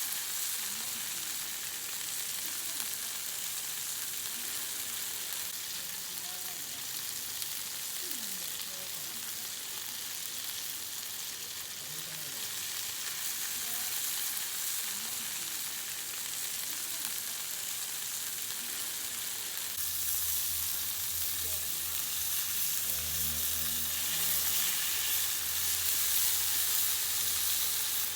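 Food frying in a pan over a campfire, a steady sizzle. A low hum joins about twenty seconds in.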